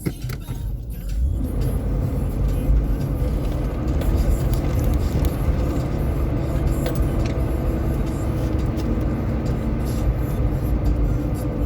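Vehicle engine running with a heavy low rumble, growing louder and fuller about a second and a half in, then holding steady.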